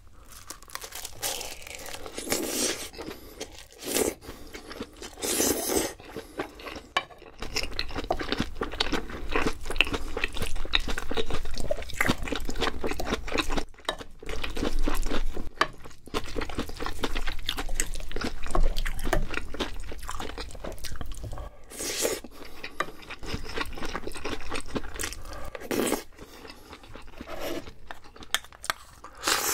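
Close-miked chewing and crunching of food by one person eating, a dense run of small wet clicks with a few louder bursts between.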